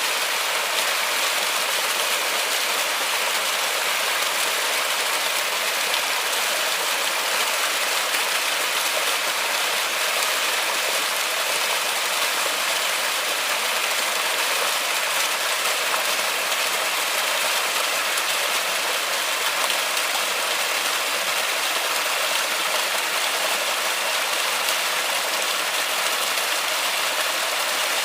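Flowing river water: a steady, even rush of water with no separate splashes or other events.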